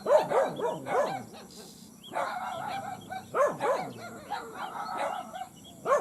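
A dog barking in irregular runs of short barks, with a lull about a third of the way in.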